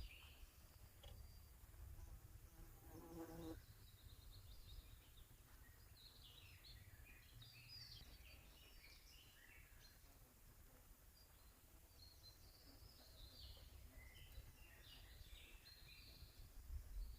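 Faint forest birdsong: small birds chirping and trilling on and off, with a buzzing insect passing for about a second near the start, over a low rumble.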